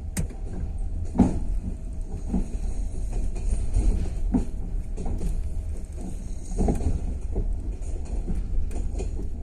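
Moving passenger train heard from inside its carriage: a steady low rumble from the running gear, broken by irregular clacks and knocks of the wheels over the track, the loudest about a second in and again about two-thirds of the way through.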